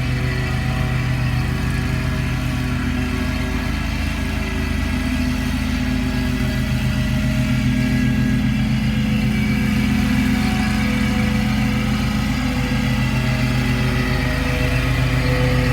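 Lawn mower engine running steadily through the cut, slowly getting louder toward the end as it comes closer.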